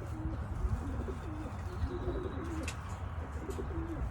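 Racing pigeons cooing, several birds at once in a string of short, wavering low calls, over a steady low hum.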